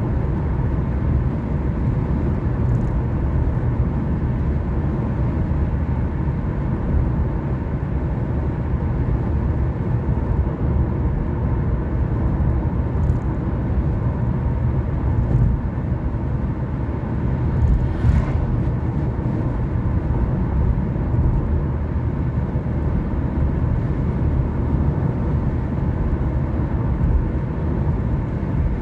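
A car driving at a steady speed: a constant low rumble of engine and road noise, with a brief faint tick about two-thirds of the way through.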